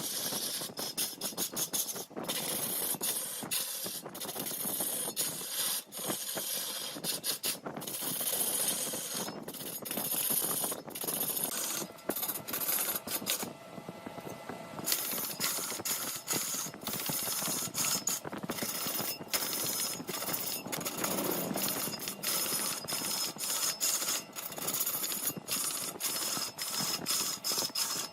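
Wood lathe turning mahogany, the cutting tool scraping against the spinning wood in a steady hiss broken by many short gaps. Near the middle the cutting stops for about a second and a half.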